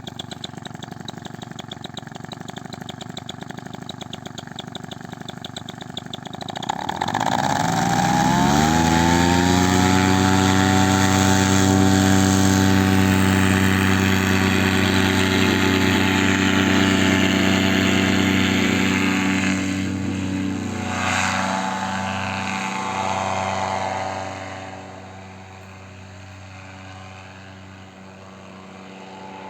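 Paramotor engine running at low revs, then throttled up about seven seconds in with a rising pitch to a steady full-power run for takeoff. It eases off near the end to a lower, quieter run.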